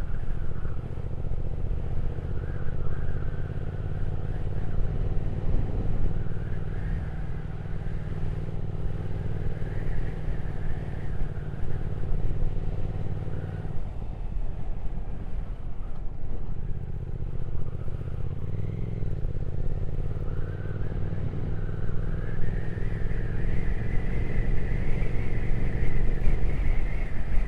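Triumph Speed Twin 1200's parallel-twin engine running steadily while riding, with wind rush. The engine note breaks briefly about halfway through and dips again shortly after, then the revs climb over the last few seconds.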